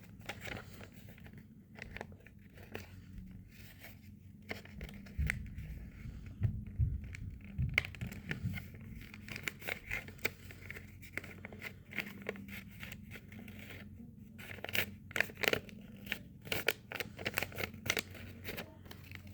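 A sheet of paper being folded and creased by hand: scattered short crackles and rustles of the paper, busiest in the middle and again near the end, over a low steady hum.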